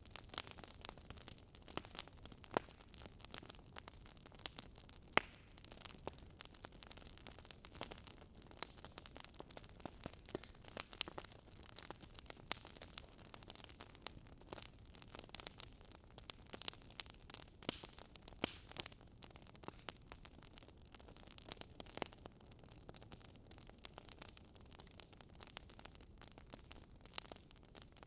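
Wood fire crackling: irregular sharp pops and snaps, several a second, over a soft hiss.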